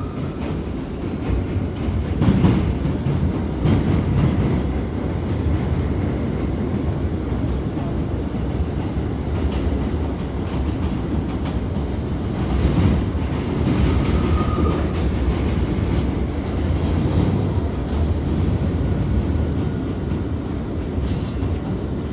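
An R179 subway car running at speed, heard from inside the car: a steady low rumble of wheels on the track, with occasional knocks at rail joints.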